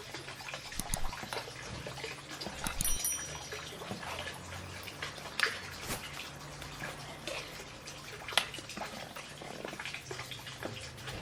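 Food-preparation sounds: scattered light clicks and taps of kitchenware, with water dripping and sloshing.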